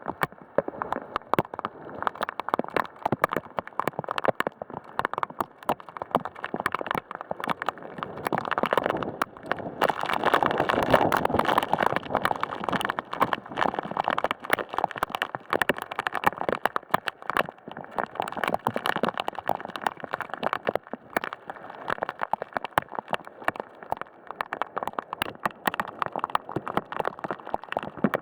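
Heavy thunderstorm rain falling, with many sharp drop impacts close by. The downpour grows louder about a third of the way through, then eases back.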